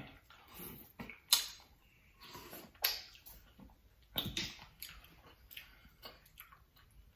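A person eating seafood up close: wet chewing and mouth smacks, with a few sharper clicks spaced irregularly.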